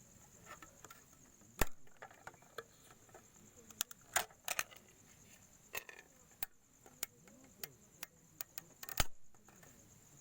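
Insects chirping in a steady high trill, with scattered sharp clicks and knocks over it, the loudest about a second and a half in and again near the end.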